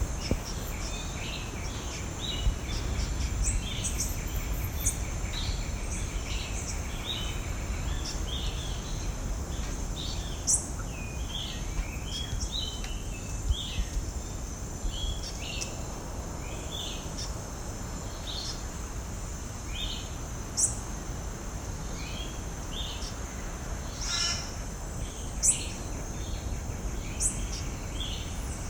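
Birds giving many short chirping calls over a steady high-pitched insect drone, with a low rumble underneath and a few sharp clicks.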